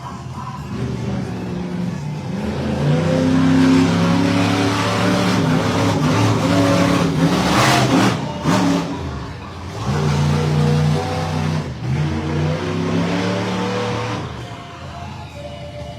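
Monster truck engine revving hard, pitch rising and falling in repeated bursts, with two loud impacts close together about halfway through; the engine eases off near the end.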